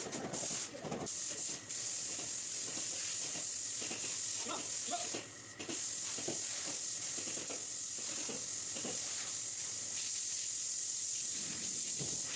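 Paint spray gun hissing steadily as compressed air and paint go through it, cut off briefly a little over five seconds in when the trigger is let go.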